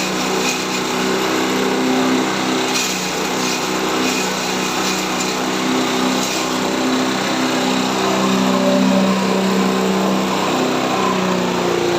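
Chopper motorcycle engine running steadily, a little louder around eight seconds in, then its pitch sliding down near the end.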